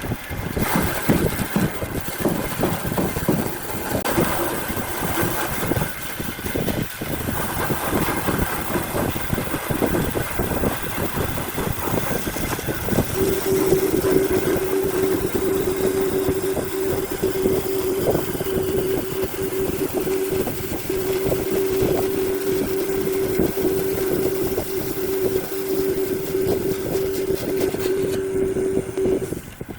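Woodworking machine running under load, with a rough, crackling cutting noise; a steady motor hum comes in about halfway through and stops just before the end.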